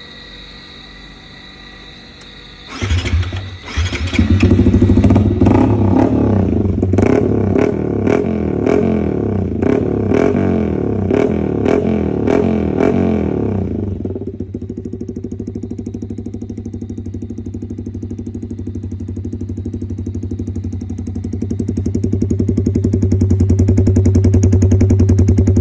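Yamaha MT-15 motorcycle's single-cylinder four-stroke engine starting about three seconds in, then revved in a series of quick sharp throttle blips. Near the middle it drops to a steady idle, and the level rises again toward the end.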